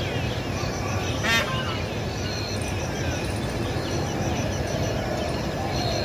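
A single harsh, buzzy bird call about a second in, over a steady outdoor background rush, with a few short high chirps from other birds.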